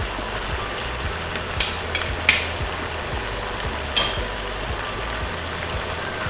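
Pork belly and eggplant sizzling steadily in a pan with shrimp paste and vinegar. Three quick metal clinks of the stirring spoons against the pan come just under two seconds in, and another at about four seconds.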